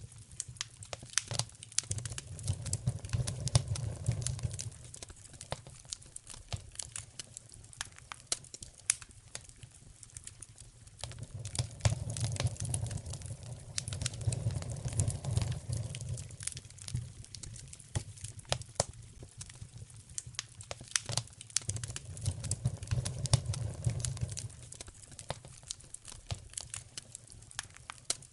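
Wood fire burning in a fireplace, crackling and popping with many sharp snaps. A low rumble swells up and dies away three times.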